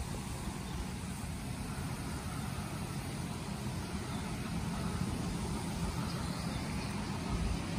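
Steady rain falling on a pond, an even hiss, with a low rumble underneath.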